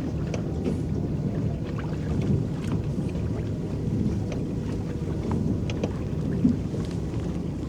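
Water lapping and splashing against the hull of a small electric boat under way, over a steady low rumble.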